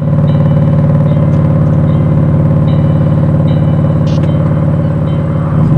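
BMW M4 F82's twin-turbo 3-litre inline-six running loud at held, steady revs, cutting in suddenly at full level. The backing music continues faintly underneath.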